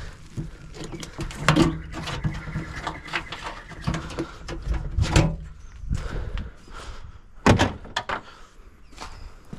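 Plastic parts being pulled and knocked off a dishwasher's metal tub and frame: a string of irregular clattering knocks and scrapes, the loudest about one and a half, five and seven and a half seconds in.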